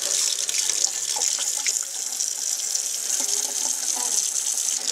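Water running steadily, a continuous hiss.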